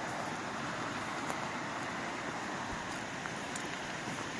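Steady rushing of a mountain stream in the gorge, with a few faint ticks over it.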